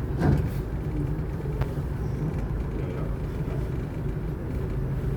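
Charter fishing boat's engine running steadily under way, a low drone, with a brief knock about a quarter second in.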